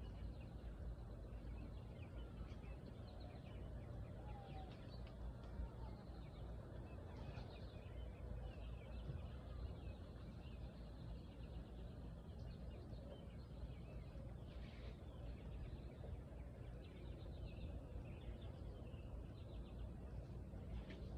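Birds chirping and calling faintly over a steady low rumble.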